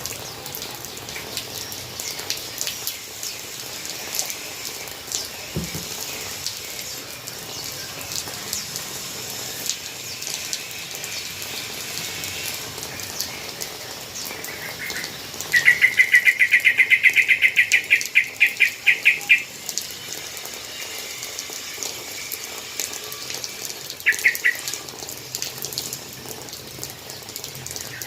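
Steady hiss of water falling in a bird's rain-bath, with scattered light ticks of drops. About halfway through, a yellow-vented bulbul gives a rapid chattering call lasting about four seconds. Two short chatters follow near the end.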